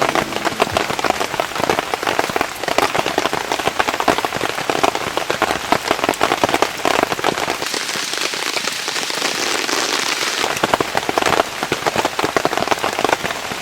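Rain falling on a tarp: a dense, steady patter of drops, turning hissier for a few seconds past the middle.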